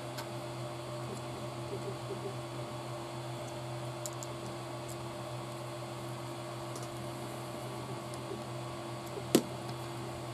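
Steady low electrical hum, with a few faint ticks of small plastic kit parts and tools being handled and one sharp click near the end.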